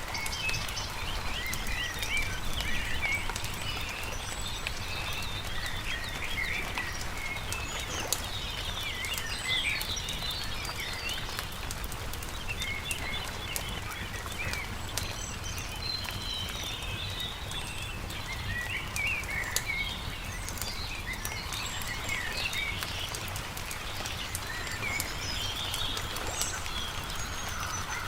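Small birds chirp and sing in many short phrases throughout, over the scattered pops and crackle of a campfire, with a steady low rumble beneath.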